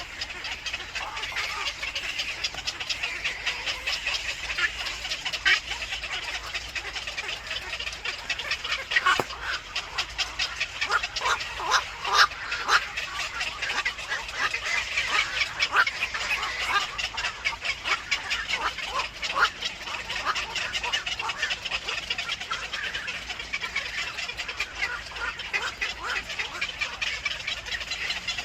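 Baby birds in a nest chirping in a dense, rapid run of short high calls, loudest through the middle stretch.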